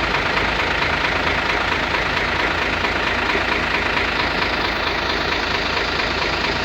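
Hino 500 truck's diesel engine idling steadily.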